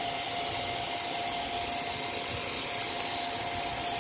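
Vacuum cleaner running steadily with a thin, even whine, sucking lint and dust out from around a sewing machine's feed dogs.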